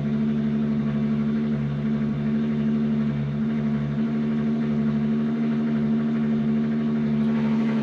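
Turbocharged 12-valve VR6 engine idling steadily just after a cold start on E95 ethanol, its cold-start fuelling never tuned.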